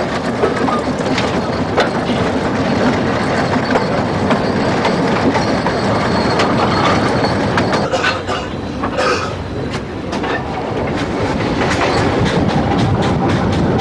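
Narrow-gauge steam train running, heard from on board: a steady rumble of the wagons with repeated clicking from the wheels and running gear. The clicks come faster and more regularly near the end.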